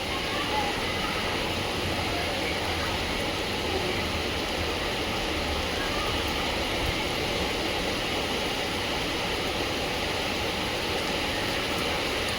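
Heavy rain falling in a steady downpour, an even rushing hiss that holds constant throughout.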